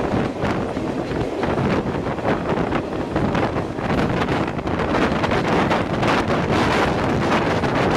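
Wind buffeting the microphone from a moving passenger train, a steady loud rush with irregular gusts, with the train's running noise underneath.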